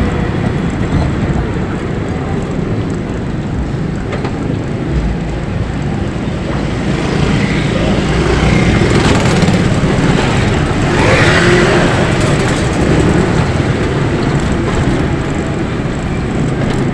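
Road traffic and rushing noise heard from a moving electric tricycle, with a louder swell from about eight to twelve seconds in, as of a vehicle going past.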